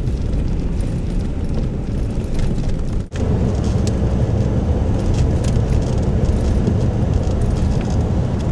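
Steady engine and road drone heard from inside the cab of a moving utility truck, with a brief break in the sound about three seconds in.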